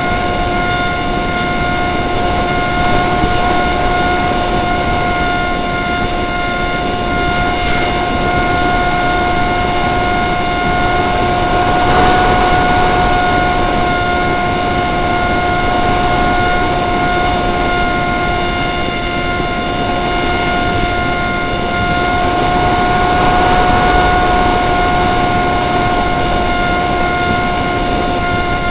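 Dynam Hawksky RC plane's electric motor and propeller whining at a steady pitch, under heavy wind noise on the microphone.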